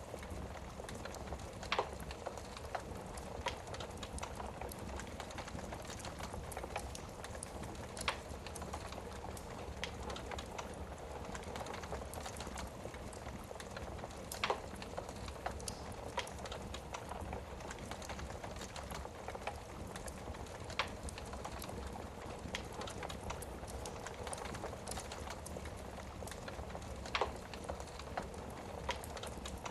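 Wood fire burning in a fireplace: a steady hiss with irregular crackling, and a few louder sharp pops every several seconds as the logs burn.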